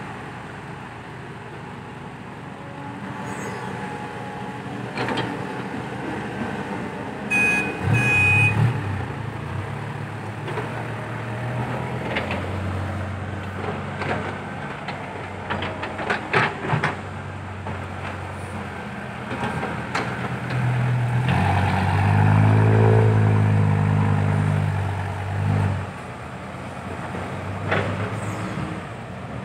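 Heavy diesel dump truck engines working under load, with one loudest stretch of a few seconds about three-quarters of the way through. Two short high beeps sound about a quarter of the way in, and there are scattered sharp clanks.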